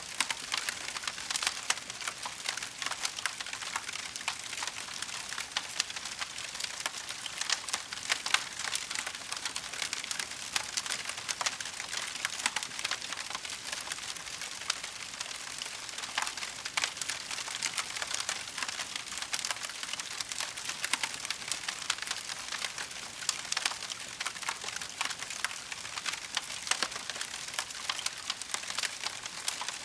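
Wood fire crackling steadily: a dense patter of small pops with an occasional louder snap.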